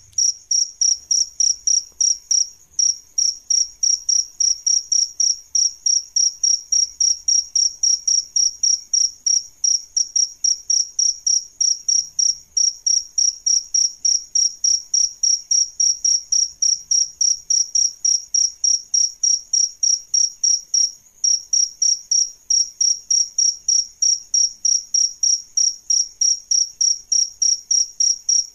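Male cricket chirping: a steady, high-pitched train of short chirps, about three a second, with one brief break about two thirds of the way through.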